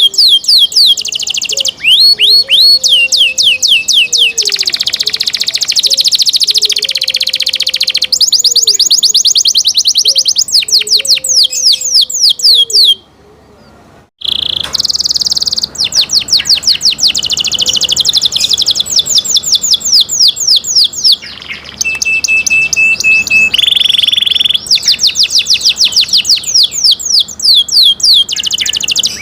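Domestic canary singing: long, fast trills of rapidly repeated high notes, switching from one trill pattern to the next every few seconds. The song breaks off abruptly for about a second near the middle, then resumes.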